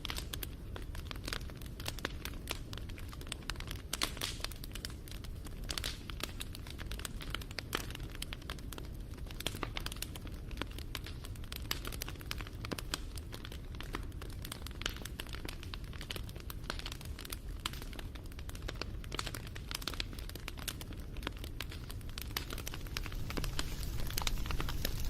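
Wood fire crackling: dense, irregular pops and snaps over a low rumble, which grows a little louder near the end.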